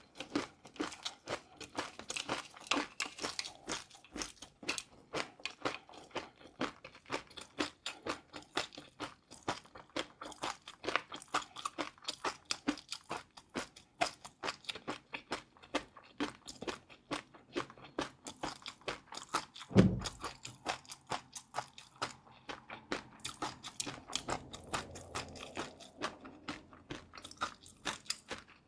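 Close-miked eating of crunchy food: a fast, irregular run of sharp crunches and chewing. A single low thump comes about two-thirds of the way through.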